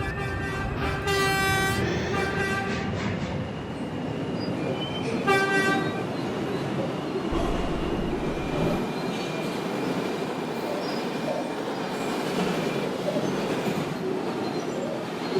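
R142 subway train running between stations, its wheels and motors making a steady rumble. A pitched horn sounds twice, a longer blast about a second in and a short one about five seconds in.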